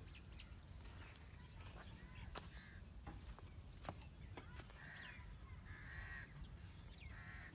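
Faint bird calls, a few short harsh calls spread over several seconds, over a low steady rumble.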